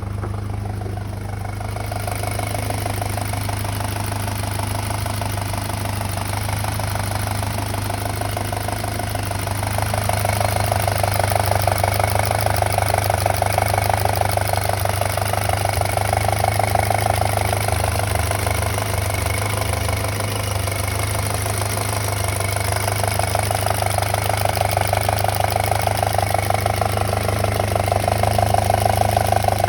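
Volkswagen 2.0T FSI (BPY) turbocharged four-cylinder engine idling steadily, heard close up, with a fast, even rattle. The owner believes the rattle is the small timing chain that links the two camshafts. The sound gets a little louder about ten seconds in.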